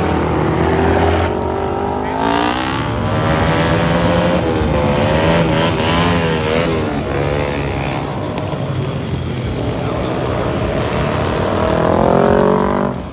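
Engines of customised motorcycles and a rat-rod truck driving past, revved so that the engine pitch rises and falls several times, with a long rising rev near the end.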